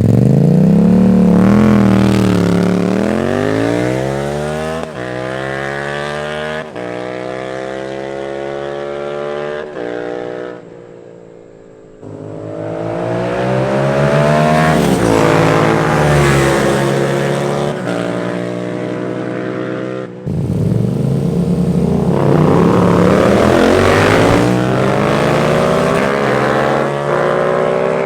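Yamaha FZ-07 parallel-twin motorcycle engine on an aftermarket exhaust, loud and accelerating hard, its note climbing under throttle and dropping back again several times. The sound breaks off and changes abruptly about ten, twelve and twenty seconds in.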